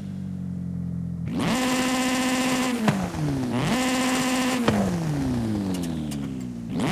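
Video-game car engine revving: three times it climbs quickly to a high steady pitch, holds there, then drops with a click and winds down.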